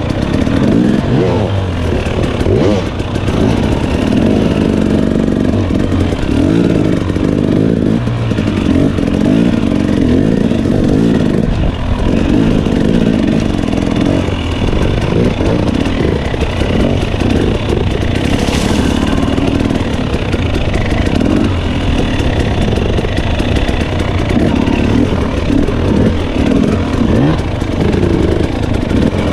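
Dirt bike engine running hard on a trail ride, its revs rising and falling continually as the throttle is worked. A short burst of noise cuts in about two-thirds of the way through.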